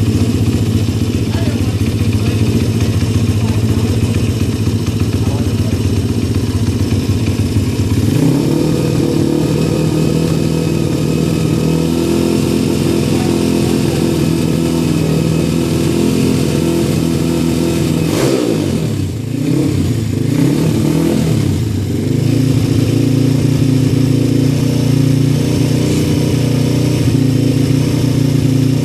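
140cc pit bike's single-cylinder four-stroke engine running steadily, its revs stepping up about eight seconds in. A little past halfway the revs drop and climb back twice, then it runs on steadily.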